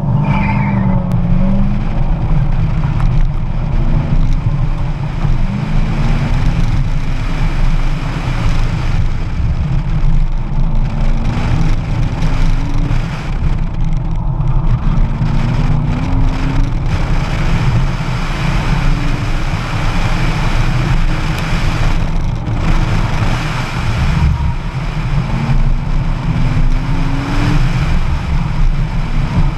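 Car engine pulling hard off the start line, then rising in pitch and dropping back again and again as the car accelerates and slows between cones on an autocross course. Heavy wind and road noise come through the open window.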